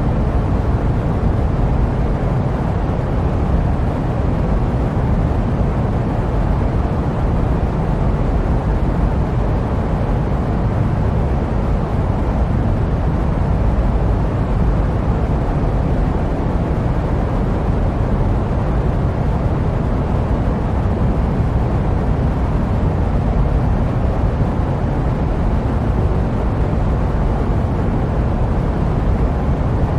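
Steady jet airliner cabin noise used as sleep white noise: an even, unbroken hiss, heaviest in the low end.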